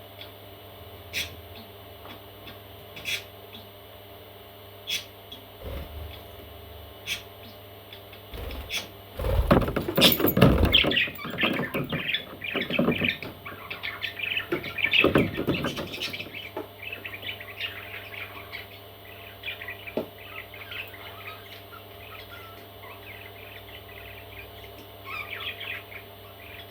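Parrot chicks chirping and squawking in a busy flurry that starts about a third of the way in, mixed with low thumps, then thinning to softer chirps. Before it, sharp ticks come about every two seconds.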